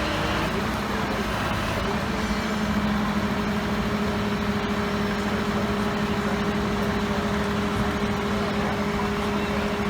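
A large vehicle's engine idling with a steady hum, over a constant noisy background.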